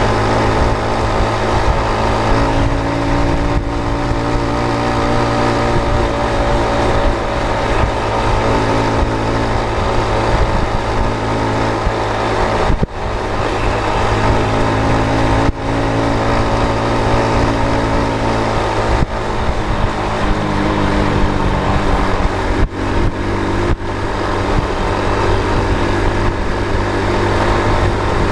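A vehicle's engine running steadily on the move, its pitch shifting a couple of times, with a few brief dips in level.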